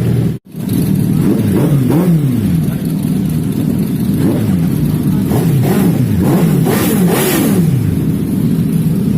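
Superbike engine being revved again and again, its pitch rising and falling about seven times over a steady running note. The sound cuts out completely for a moment about half a second in.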